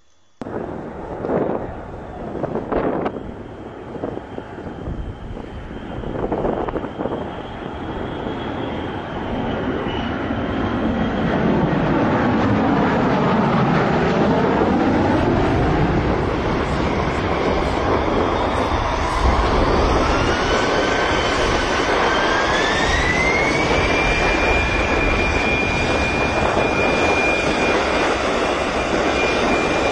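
Airplane engine noise building as a plane passes close by, with gusty rumbles in the first few seconds, then a whine that rises in pitch about two-thirds of the way in and holds steady.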